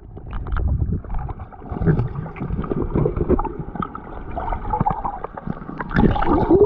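Rushing creek water heard with the microphone submerged: a muffled gurgling and rumbling, dotted with small clicks and knocks.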